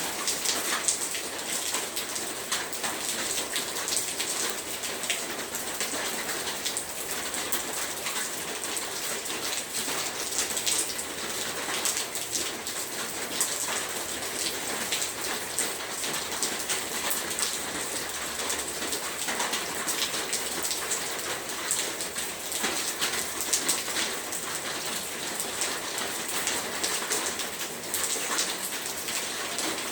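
Heavy rain falling steadily, a dense hiss of drops with many fine spatters striking a surface.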